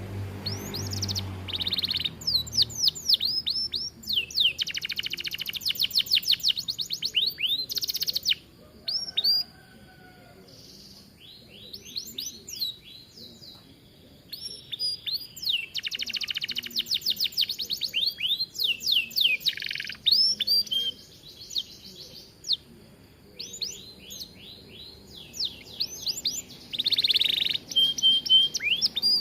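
Domestic canary singing a long, full song of fast, rapidly repeated trills and rolls. The phrases are broken by a few short pauses.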